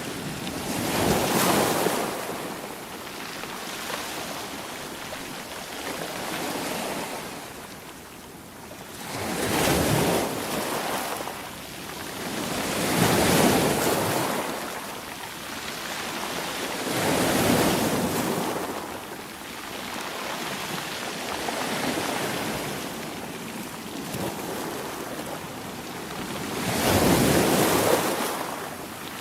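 Sea waves breaking, each a rush of surf that swells and falls away, about five in a row several seconds apart, with the wash of the water between them.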